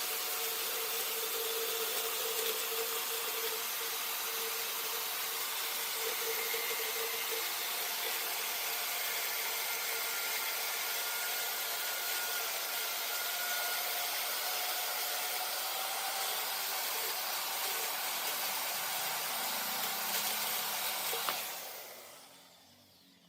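Large woodworking lathe turning mahogany, a tool working the spinning wood with a steady hiss over a faint steady tone from the machine. It fades out near the end.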